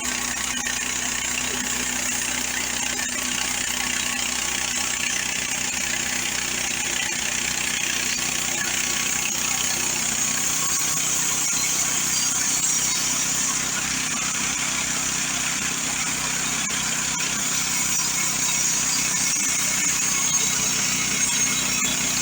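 Mechmaxx 26-inch bandsaw mill's 420cc gas engine running steadily under load as its band blade cuts through hard shagbark hickory. The hiss of the blade in the wood gets a little stronger about halfway through.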